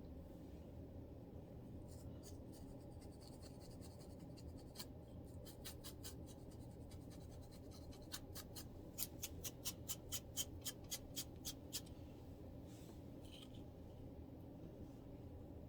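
Close-up scratching of a scalp to loosen dandruff, heard as short, dry, scratchy strokes. They come sparsely at first, then about a dozen quicker, louder strokes run together for a few seconds past the middle. A steady low hum sits underneath.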